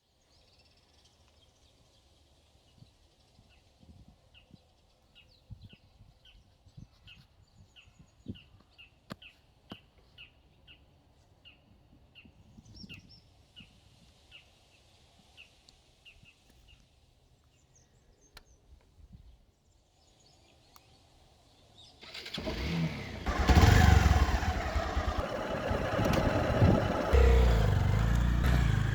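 A bird calling a long run of quick repeated chirps over quiet, with a few sharp clicks; about 22 seconds in a Hero Xpulse 200 motorcycle's single-cylinder engine starts up loudly and runs, revved up twice.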